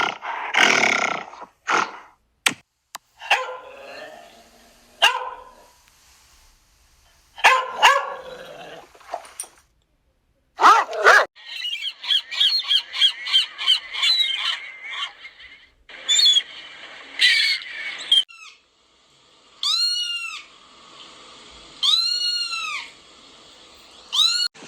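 A run of different animal calls. A dog barks and growls with short loud calls through the first half, then a fast chattering series of chirps follows, and near the end come three separate calls that rise and fall in pitch.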